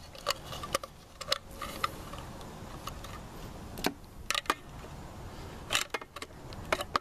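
Scattered light clicks and knocks of metal parts being handled as chamber separators are wedged inside a homemade can-type exhaust muffler, bunched in a few small clusters.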